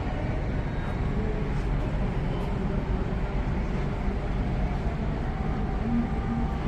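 Steady low rumble and hiss of harbour ambience, with faint distant voices now and then.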